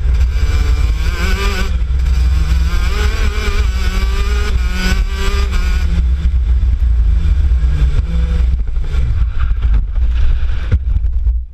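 Racing kart engine running hard, its pitch rising and falling, over a heavy low rumble. About six seconds in the engine note fades, and the sound drops off sharply near the end.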